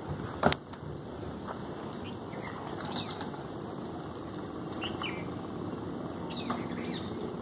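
Outdoor background with a few short, high bird chirps spaced a second or two apart, and a single sharp click about half a second in.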